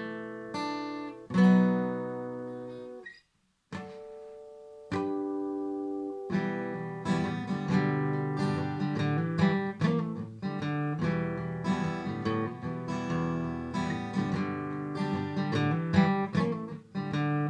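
Acoustic guitar playing an instrumental intro: single plucked notes and chords, a short pause about three seconds in, then steady strummed chords from about six seconds on.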